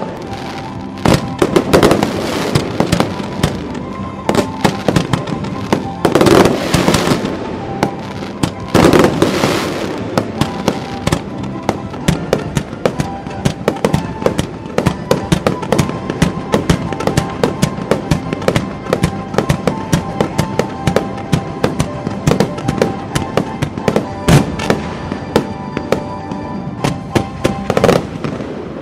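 Aerial fireworks bursting in rapid succession: a dense run of sharp bangs and crackles, with heavier, longer bursts about two, six and nine seconds in. Music plays steadily underneath.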